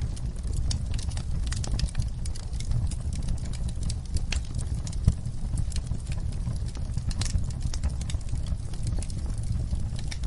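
Wood fire in a fireplace crackling: a steady low rumble of burning under frequent irregular snaps and pops, with one louder pop about five seconds in.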